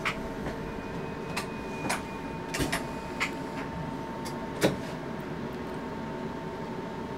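Running noise inside the driver's cab of an electric commuter train: a steady hum with a constant thin whine, and scattered clicks and knocks, the loudest a little before five seconds in.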